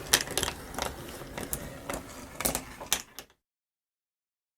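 Wooden marble run working: irregular clicks and clacks of the mechanism and marbles on wooden track. The sound cuts off suddenly about three seconds in.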